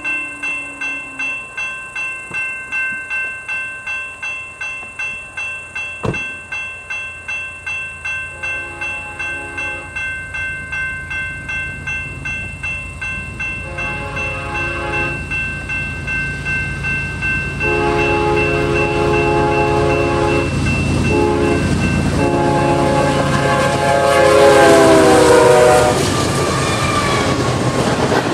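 Grade-crossing bell ringing about twice a second as a GE ES44AC-led double-stack freight train approaches; the locomotive horn sounds four blasts, the last the longest, its pitch dropping as the lead locomotive goes by. Near the end the loud rumble of the locomotives and stack cars passing takes over.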